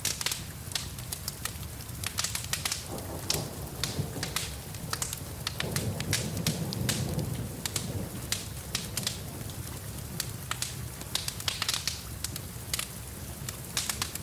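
Wood fire crackling and popping in a fireplace, many sharp irregular snaps over a low steady rumble, with rain falling.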